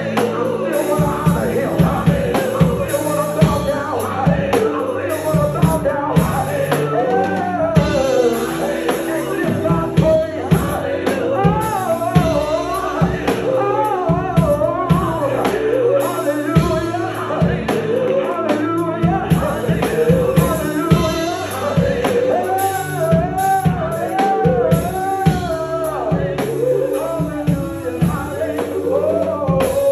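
Gospel music: a male singer sustaining and bending wordless, melismatic vocal runs over a band with drums and a steady bass.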